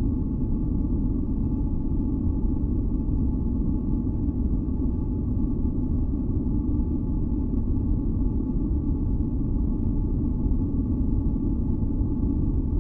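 Steady, deep rumbling masking noise from a white-noise track for sleep and tinnitus relief, with a few faint held tones ringing softly above it.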